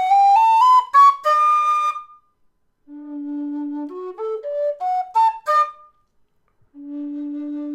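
Howard low D whistle with its reed head playing the D scale. One run finishes climbing into the second octave, then after a short pause it starts on a held low D and steps quickly up two octaves, and the low D sounds again near the end. The reed head brightens the tone a little while keeping some back pressure.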